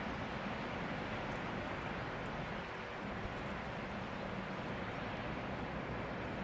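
Steady rain falling, an even hiss with a few faint ticks of drops through it.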